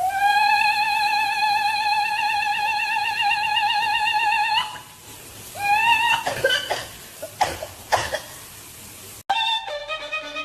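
A long sung note held with vibrato for about four and a half seconds, in an operatic style, then a few short rising notes mixed with clicks. Near the end, after a sudden cut, a violin starts playing.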